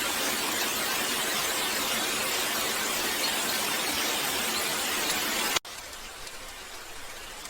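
Heavy rain falling as a steady, dense hiss, which cuts off abruptly about five and a half seconds in to a quieter, lighter patter of rain.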